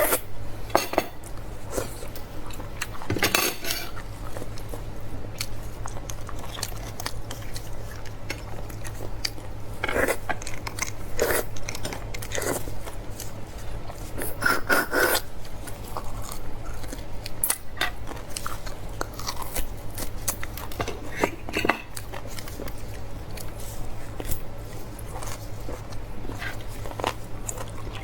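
Close-miked eating of beef bone marrow: wet biting and chewing with scattered clicks of utensils against the bowl, over a steady low hum.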